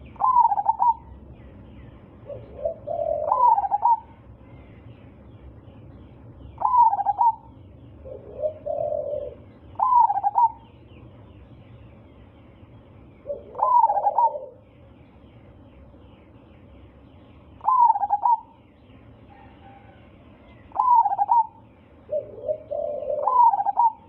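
Zebra dove (perkutut) cooing, its song phrase repeated about every three to four seconds, eight times. Softer, lower coo notes fall between some of the phrases.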